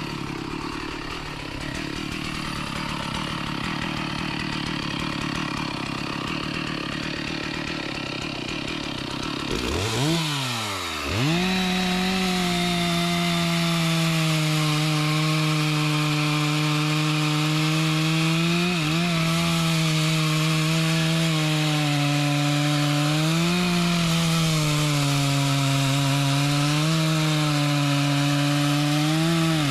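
Chainsaw cutting into mahogany wood. It runs rough and uneven for about ten seconds, drops and then revs up about eleven seconds in, and holds a high, steady engine note that sags briefly a few times.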